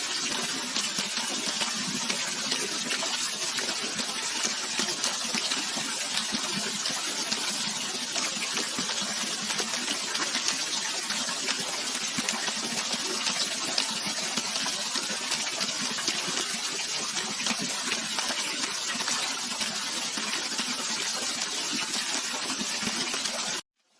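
Steady rushing water, an even continuous wash of sound that cuts off suddenly just before the end.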